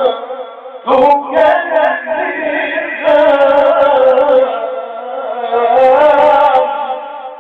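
A man reciting the Quran in a melodic tajweed style, holding long, ornamented notes with short breaths between phrases; the last phrase fades out near the end.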